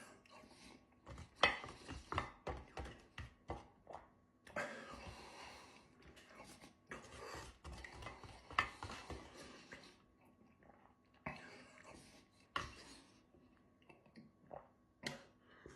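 Cutlery clicking and scraping against a ready-meal tray as someone eats quickly, with chewing and a few loud breaths between mouthfuls of very hot curry.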